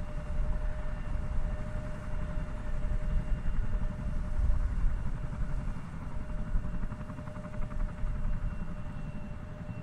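Boeing 787-8's Rolls-Royce Trent 1000 jet engines at takeoff power: a low rumble with a steady whine. It swells to a peak about halfway through, then slowly eases off as the airliner moves away.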